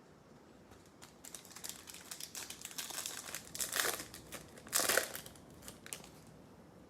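Bowman baseball card pack wrapper crinkling as it is handled and torn open, with two louder rips about four and five seconds in.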